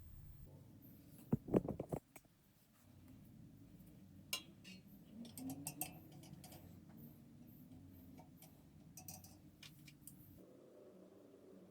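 Parts of a 1920s Diehl electric fan being handled and fitted during reassembly: scattered light clicks and taps, with a brief louder clatter about one and a half seconds in.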